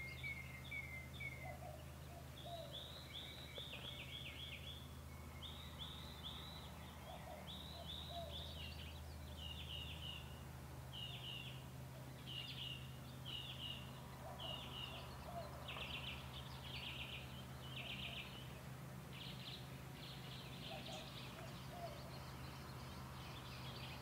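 Verdins calling: repeated small groups of short, high, falling chip notes, coming every second or so and a little denser in the middle, over a faint steady low hum.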